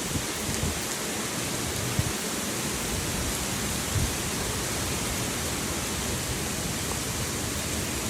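Heavy rain pouring down in strong wind: a steady, even hiss, with a few brief low thumps, about two and four seconds in.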